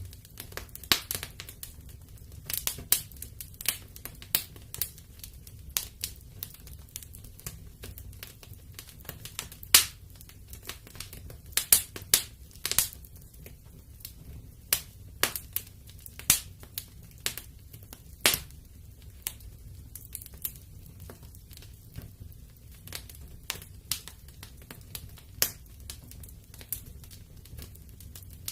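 Wood fire in a fireplace crackling, with irregular sharp pops, the loudest about ten and twelve seconds in, over a low steady rumble of the flames.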